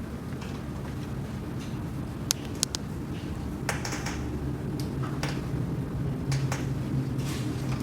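Scattered light clicks and taps, a few quick ones in a row, over a steady low hum.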